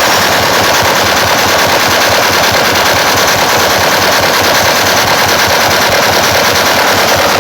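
Very loud, heavily distorted playback from a large stack of mobile sound-system speakers and horn speakers, a rapid rattling beat pounding on without a break.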